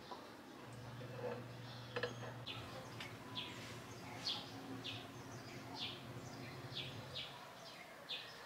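Small bird chirping over and over: short, high, falling chirps about once or twice a second. A few soft clicks and a faint low hum lie underneath.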